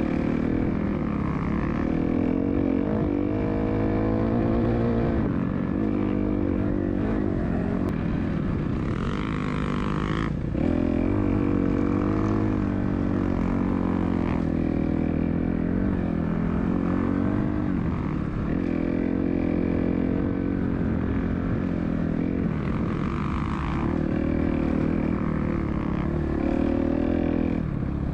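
Dirt bike engine running while ridden, its pitch rising and falling with the throttle, with a sudden change about ten seconds in.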